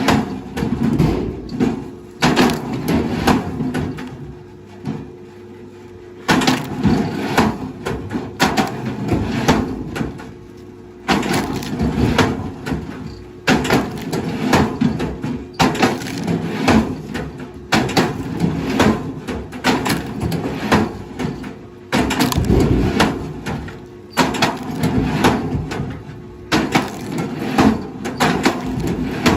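Wood cracking and splintering under a heavy machine, in repeated bursts every second or two over a steady engine hum. There is a longer lull of just the engine a few seconds in.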